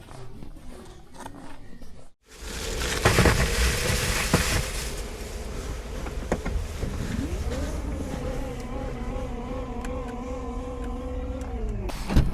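A car running with its interior noise loud and steady. About halfway through, an electric motor starts with a rising buzz, holds a slightly wavering whine for several seconds, then stops and is followed by a sharp knock.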